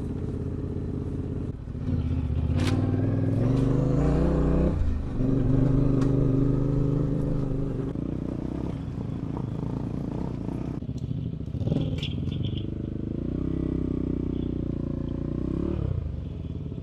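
Adventure motorcycle engine running on a rough dirt track, rising in revs over a few seconds and dropping sharply at a gear change about five seconds in, then running steadily before pulling up again near the end. Light clatter from the bike over the rough ground.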